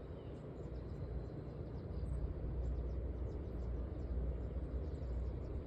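Outdoor ambience: a steady low rumble with faint, scattered high bird chirps over it.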